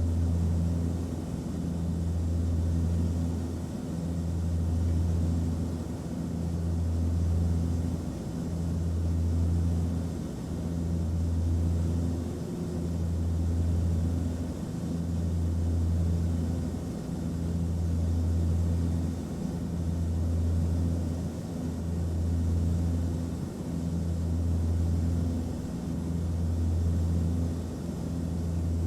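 Airliner cabin noise in flight: a steady low drone of engines and airflow with a faint hiss, swelling and fading about every two seconds.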